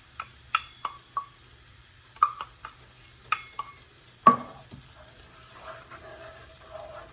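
A utensil clinks sharply against a skillet, about ten times in the first four seconds, the loudest just after four seconds in, as heavy cream is stirred into a butter sauce. After that the cream simmers faintly in the pan.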